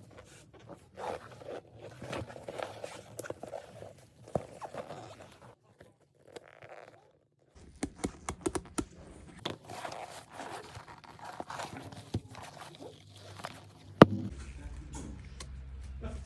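Scraping, rustling and clicking of a handbag being handled and worked on by hand, in short pieces with a brief silence partway through and a sharp click near the end.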